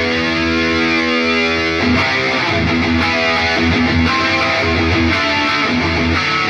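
Distorted electric guitar through an Atomic AmpliFire amp-modeler pedal, played out of cheap computer speakers: a chord held for nearly two seconds, then a run of quicker single notes.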